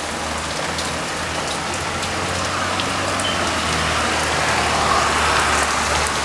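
Heavy rain pouring steadily on hard surfaces, with scattered individual drops ticking, over a low steady hum.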